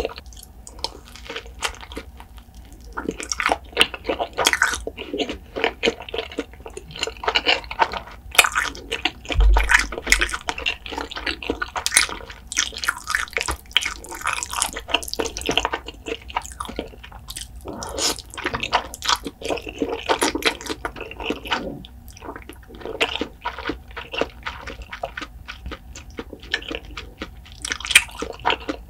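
Close-miked wet chewing, smacking and biting of cheese carbo fire noodles and fried food, a dense run of short wet clicks and smacks with a few crunchy bites.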